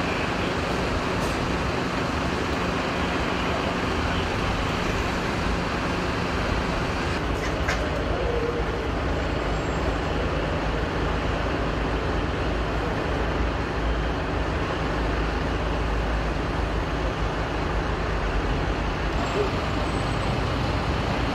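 Steady road traffic noise with a low engine rumble from heavy vehicles passing.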